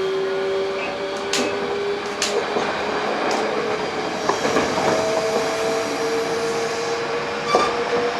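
Inside a Hankyu 8000 series train, its Toshiba GTO-VVVF inverter whines with a slowly rising pitch as the train picks up speed, over steady wheel and rail rumble with a few sharp clicks. The whine's tone shifts in steps a few seconds in.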